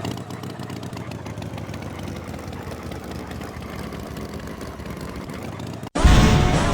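A steady engine idling, with an even hum. It cuts off suddenly about six seconds in, and loud music with singing begins.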